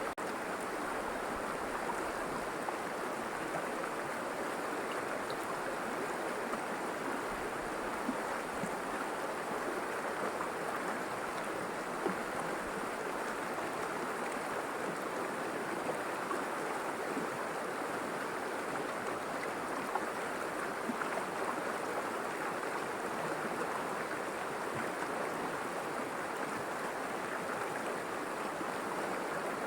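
River water running steadily over rocks, a continuous rushing with small splashes and gurgles.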